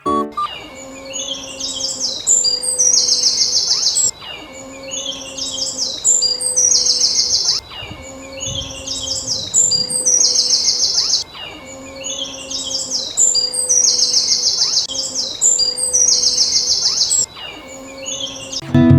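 Songbird chirping: the same phrase of quick, high chirps repeats identically about every three and a half seconds, a looped birdsong recording, with a low steady tone underneath.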